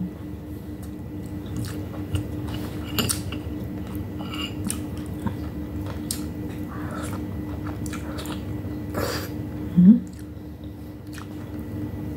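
Close-up chewing and biting of boiled okra and rice eaten by hand, with small wet mouth clicks over a steady low hum. A short rising hummed "mm" about ten seconds in is the loudest sound.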